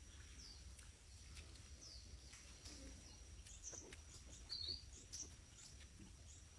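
Faint bird chirps: short, high, falling calls scattered every second or so, over a low steady rumble.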